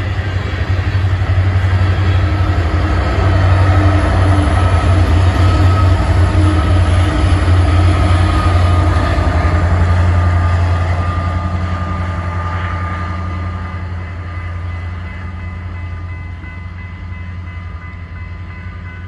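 Freight train of coal hopper cars rolling past at close range with a steady low rumble, followed by a BNSF diesel locomotive passing at the tail of the train. The noise is loudest as the last cars and the locomotive pass, then fades from about eleven seconds in as the train moves away.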